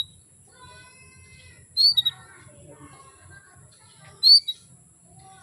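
Female canary calling twice, about two and a half seconds apart, each call a sharp upward chirp with a quick note after it, over faint twittering. It is the call of a hen in breeding condition summoning a male.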